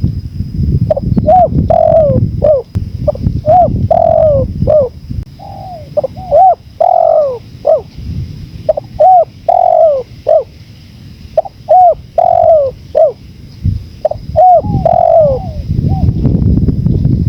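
Spotted doves cooing over and over, short arched coos following one another closely throughout. Underneath runs a low rumble of wind, strongest near the start and again near the end.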